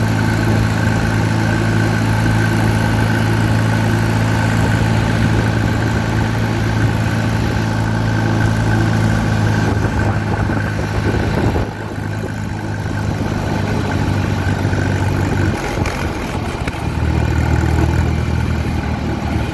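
Allis-Chalmers WD tractor's four-cylinder engine running steadily under way. About twelve seconds in the engine note drops and gets quieter as the tractor slows, and it comes back fuller a few seconds before the end.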